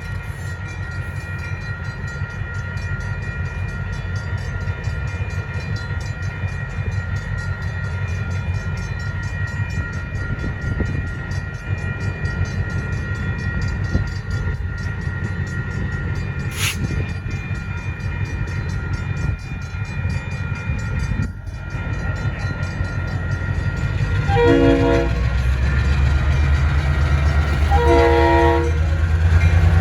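Grade-crossing bell ringing steadily while EMD SW1500 switcher locomotives approach, their diesel rumble growing louder toward the end. The locomotive horn sounds twice near the end, about three seconds apart.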